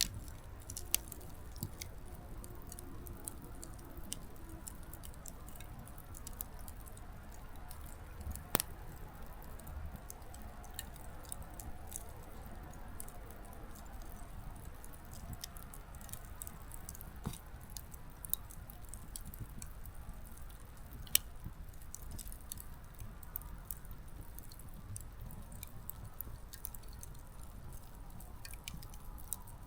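Small wood campfire burning low, its firewood crackling with scattered light pops and two sharper pops, about nine and twenty-one seconds in, over a low steady rumble.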